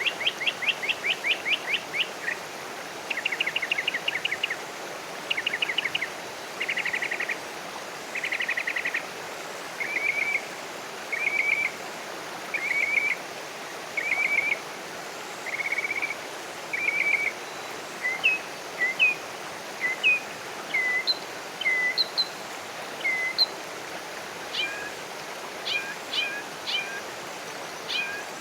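Wild songbird singing: a run of short, fast trills, each about a second long and repeated every second or two, that give way in the second half to scattered single high chirps. A steady rushing background noise runs underneath.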